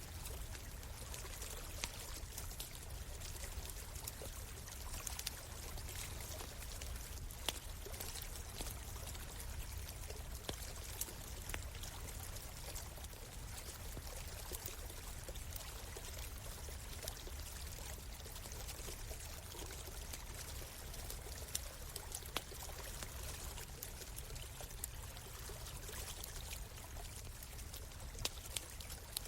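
Steady rush of a flowing stream, with short sharp crackles and pops from a wood campfire at irregular moments throughout.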